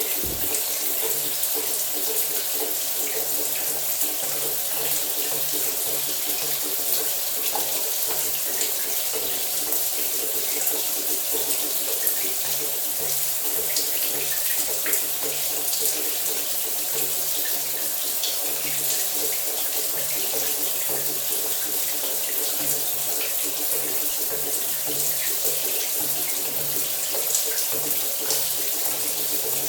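Shower water running steadily, a continuous hiss of spray with a faint low hum underneath.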